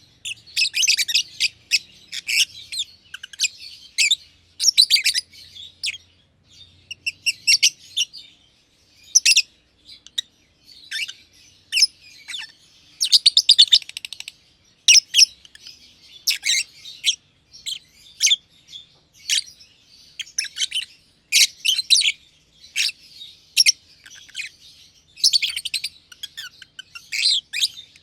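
Black-masked (personata) lovebirds chirping in quick, shrill bursts, one burst every second or so with short pauses between them.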